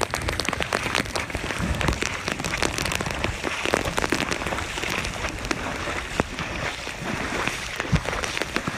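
Rain falling, with many sharp ticks of drops striking close to the microphone, over a low rumble of wind on the microphone.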